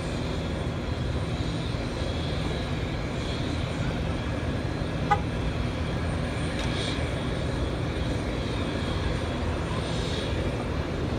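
Jet airliner engines running with a steady high whine, heard through heavy wind noise on the phone's microphone. A single sharp click about five seconds in.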